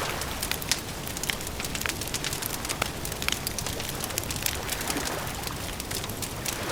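Wood campfire crackling: irregular sharp snaps and pops, several a second, over a steady low background noise.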